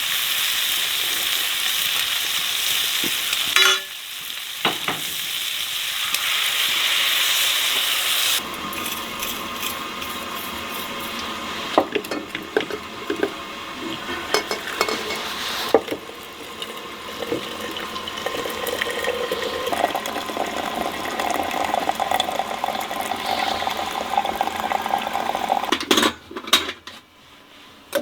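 Food frying in a pan with a loud, steady sizzle, broken off twice by sudden cuts. From about eight seconds in it gives way to quieter stirring and clinking of utensils against cookware.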